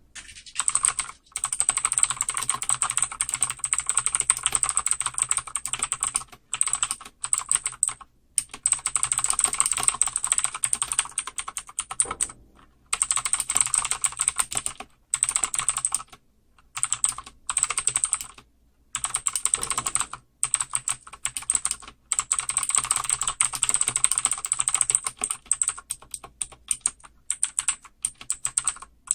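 Vortex ET G2 mechanical keyboard with clicky blue switches being typed on fast. Rapid clicking keystrokes come in runs of a few seconds, broken by short pauses.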